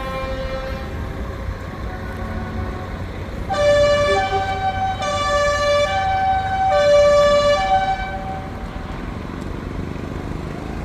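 Truck air horns: one multi-tone horn ends shortly after the start, then from about a third of the way in a louder multi-tone horn blows three long blasts, switching between notes like a tune, over the steady low rumble of truck engines.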